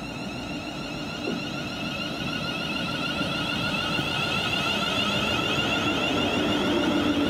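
A train approaching, with a steady high whine made of several tones over a low rumble, growing gradually louder.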